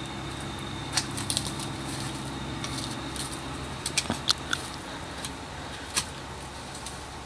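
A handful of short, sharp clicks and knocks at irregular intervals, a few grouped around one second in and around four seconds in and a single one near six seconds, over a steady low hum.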